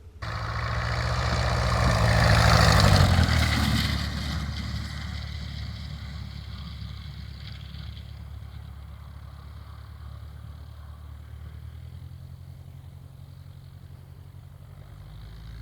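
Aircraft engine noise that starts suddenly, swells to a loud peak about two to three seconds in, then eases into a steady lower drone.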